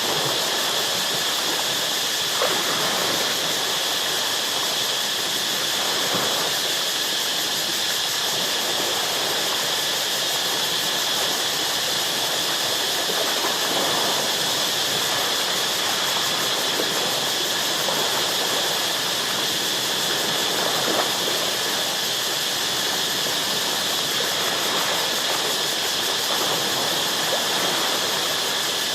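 Ocean waves washing and breaking against shoreline rocks in a continuous, steady rush, with a few slightly stronger surges. A steady high-pitched insect drone runs underneath.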